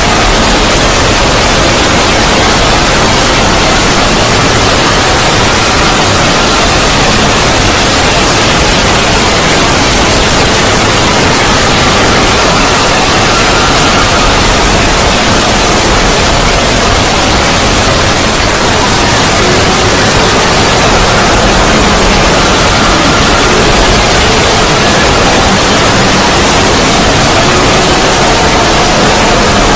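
Loud, steady static-like noise filling the whole range, with faint wavering tones drifting through it: a synthesised 'void' sound effect.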